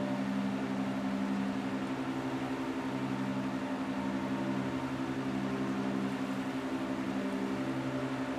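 A steady low mechanical hum with a hiss over it. It runs evenly, with a fast flutter in one of its tones.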